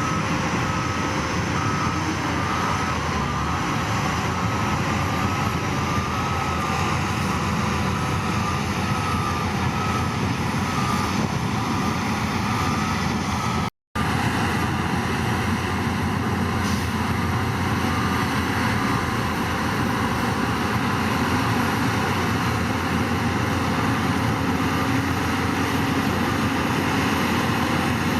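Heavy diesel earthmoving machinery running steadily under load, with a reversing alarm beeping at an even rate through the first half. The sound cuts out for an instant about 14 seconds in, then the engine noise carries on without the beeping.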